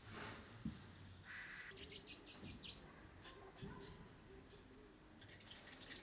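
Faint bird chirping: a quick run of short high chirps in the first half, with a few soft knocks. Near the end a steady rushing hiss begins.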